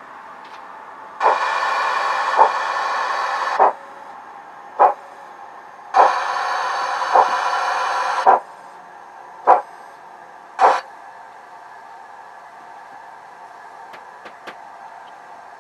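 Sound decoder in an O gauge model of the steam locomotive Evening Star playing steam hiss through the model's speaker: two long hisses of about two seconds each, with several short puffs between and after, over a steady low background.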